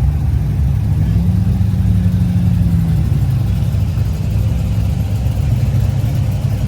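Car engine running with a deep, steady low rumble; its pitch lifts slightly about a second in and settles back down a couple of seconds later.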